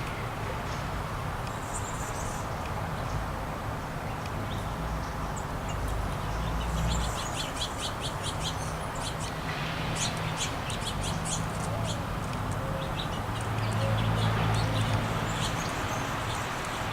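Small songbirds chirping in quick runs of short, high notes, sparse at first and thick from about six seconds in, over a steady low rumble.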